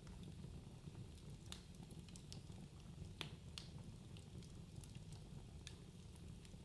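Wood fire crackling in a fireplace: irregular sharp pops and snaps over a low, steady rumble of flames, the loudest pop about three seconds in.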